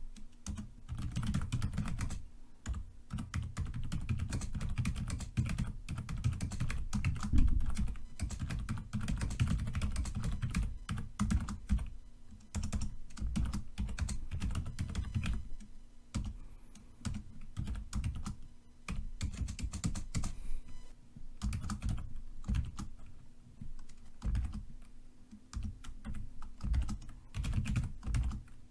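Computer keyboard being typed on steadily: dense, irregular key clicks with a deep thock to each keystroke, in runs broken by brief pauses.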